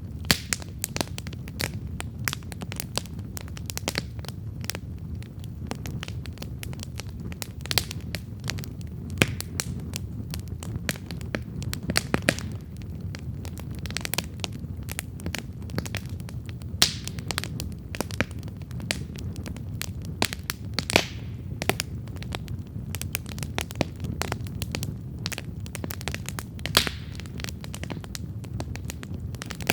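Wood campfire burning: a steady low rumble of the flames with irregular sharp crackles and pops of burning wood, a few louder pops scattered through.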